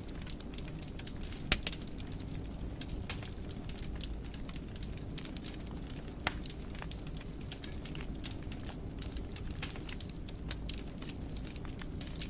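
Wood fire crackling in a fireplace: a steady low rumble of burning with many sharp pops and snaps scattered throughout, one louder pop about a second and a half in.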